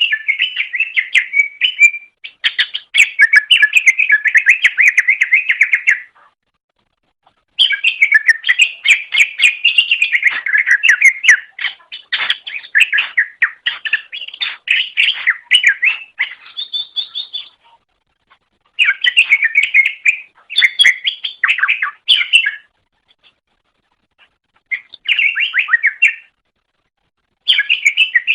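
Cucak ijo (greater green leafbird) singing: fast, high, twittering phrases of chirps and trills. The song comes in bursts of one to ten seconds, separated by short pauses.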